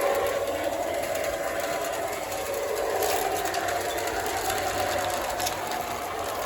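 O gauge model diesel locomotive, a LionChief Plus 2.0 RS, running along the track. It makes a steady motor hum and wheel-on-rail rumble, with a few faint clicks.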